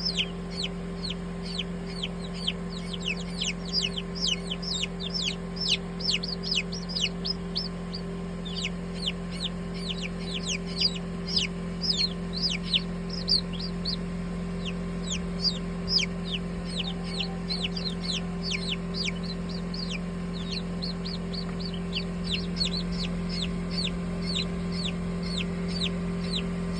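A brood of baby chicks peeping, many rapid, short high notes that each drop in pitch, thinning out somewhat in the last few seconds. A steady low hum runs underneath.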